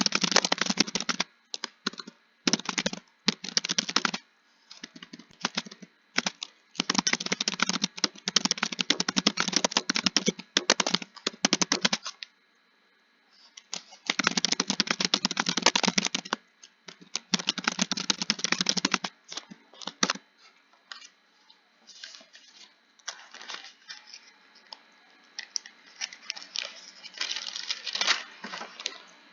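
Typing on a computer keyboard: fast runs of keystroke clicks broken by short pauses, with a near-silent gap about twelve seconds in. The typing is lighter and sparser in the last third.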